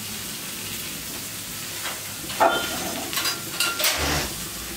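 Vegetables frying in oil in a steel kadai on a gas stove, a steady sizzle. From about halfway, a few sharp metallic clinks ring out, and a dull thump comes near the end.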